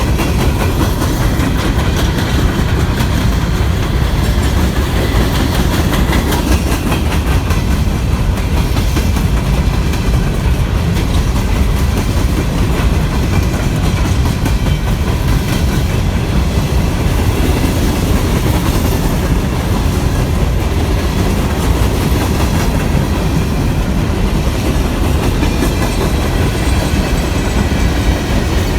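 Norfolk Southern coal train's freight cars rolling past at speed: a steady, loud rumble with the wheels clicking over the rail joints.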